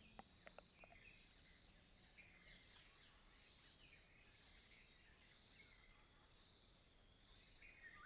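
Near silence, with faint high bird chirps and short falling whistles every second or so over a low hiss, and a few soft clicks in the first second.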